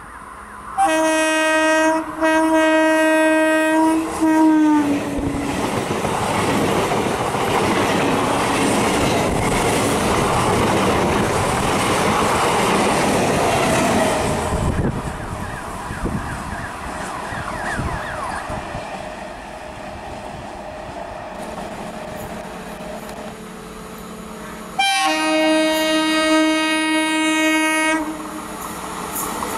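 An electric multiple-unit local train sounds its air horn in three blasts run together, the last one dropping in pitch, then rushes past close by with heavy wheel and rail noise and clickety-clack. Near the end an electric locomotive sounds its horn in one steady blast of about three seconds as it approaches.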